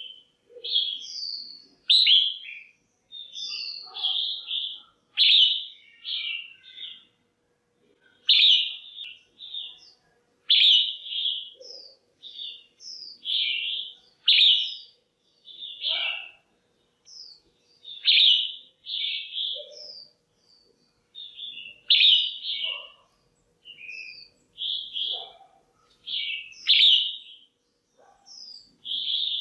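Female red-whiskered bulbul calling: short, bright chirping phrases repeated one after another every second or two. This call is used to stir up male bulbuls or to pair birds.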